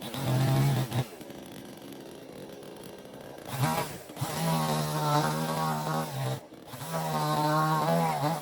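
Two-stroke chainsaw revved up in four bursts, dropping back toward idle between them.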